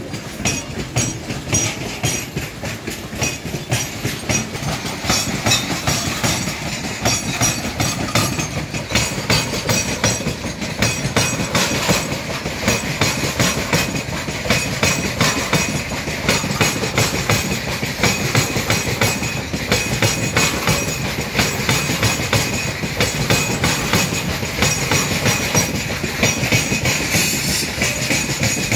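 Freight train's open-top steel wagons rolling past, wheels clattering over rail joints in a steady, rapid clickety-clack with metallic rattling and a faint steady high ring underneath.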